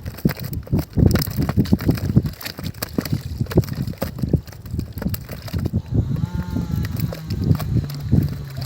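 Irregular water sloshing and splashing. A brief pitched sound rises out of it about two-thirds of the way through.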